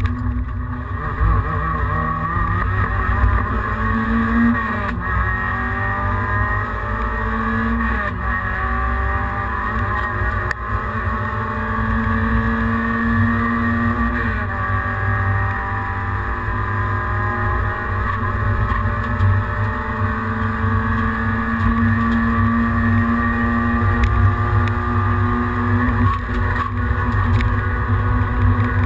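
Peugeot 106 rally car's four-cylinder engine heard from inside the cabin under hard acceleration, the pitch climbing and dropping back at each upshift several times, over a heavy rumble of road and tyre noise.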